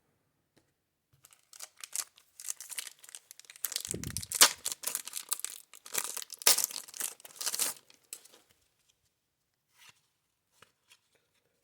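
Wax paper wrapper of a 1990 Score baseball card pack being torn open and crinkled. It crackles for several seconds, loudest in the middle with a dull thump, then gives way to a few faint clicks.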